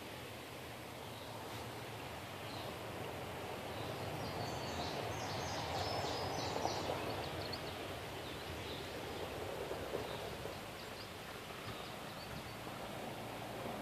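Steady outdoor background noise with a few faint, short high chirps around the middle, like small birds.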